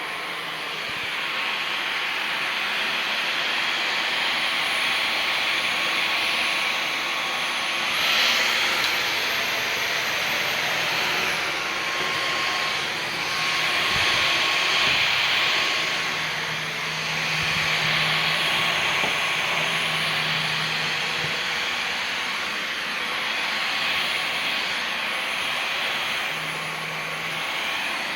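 Dyson V15 Detect cordless stick vacuum running: rushing airflow with a steady high motor whine. About eight seconds in, the whine steps up in pitch for roughly three seconds, then settles back. The level swells and eases every few seconds.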